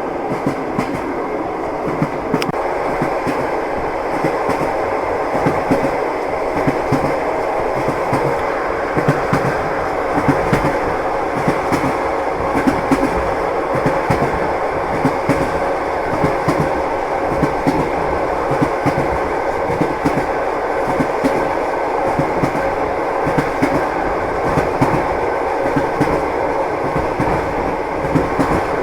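Train wheels clattering on the rails: a steady rumble with many quick clicks and knocks from the wheels running over rail joints.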